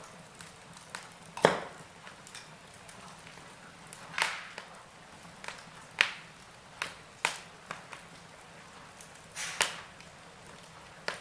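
Wood fire crackling in a fireplace: irregular sharp pops and snaps, about eight in all and the loudest one about a second and a half in, over a faint steady hiss.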